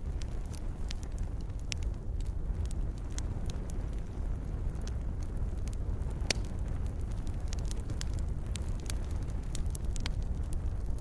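Wood fire burning, a steady low rumble of flame with irregular sharp crackles and pops; one pop about six seconds in is the loudest.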